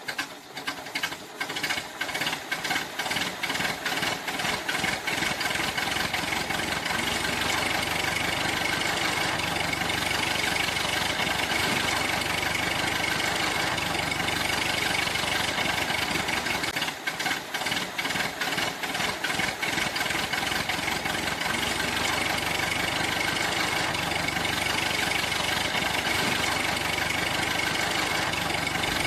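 A motor running steadily, with a rapid knocking pulse in the first few seconds and again briefly a little past the middle.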